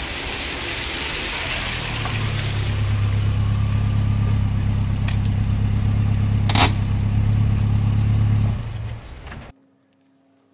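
A silver SUV driving up and running. A rushing noise at first gives way to the engine's steady low hum. There is a sharp click about two-thirds of the way through, and the sound cuts off abruptly near the end.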